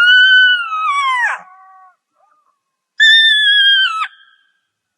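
Jackal howling: two long, high wailing calls. The first rises a little, holds and slides down; the second holds steady and then drops off sharply at the end.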